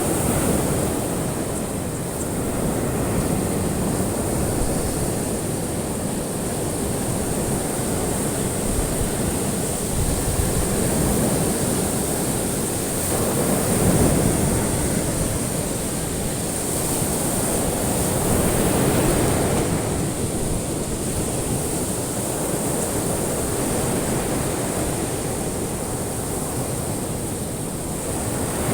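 Ocean waves washing onto a shore, a continuous surf that swells and eases every few seconds.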